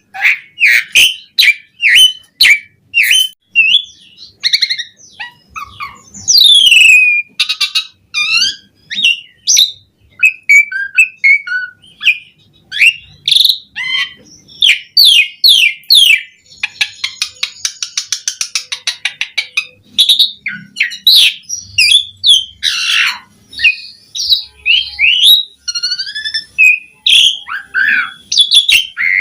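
Asian pied starling (jalak suren) singing a long, varied song of whistled and chirped phrases, broken by fast clicking runs, with a harsh rattling passage about halfway through.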